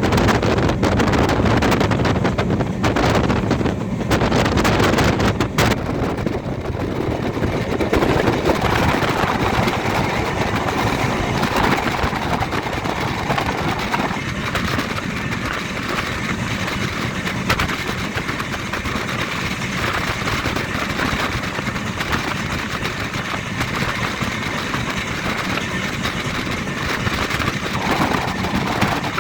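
Moving passenger train: a steady, loud running noise from wheels on track, with no clear single tone.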